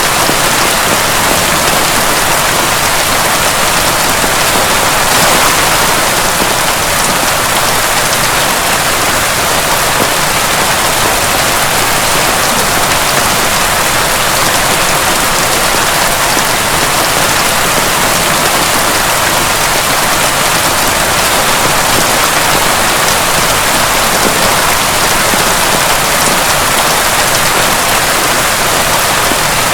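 Heavy rain falling steadily, a dense even hiss with no break and no thunder.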